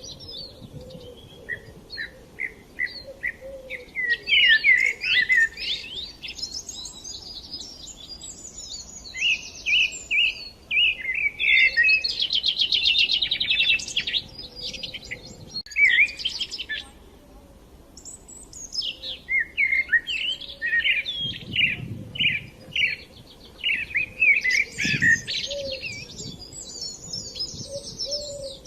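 Small songbirds singing and chirping in quick, overlapping phrases with fast trills, with a short lull just past the middle.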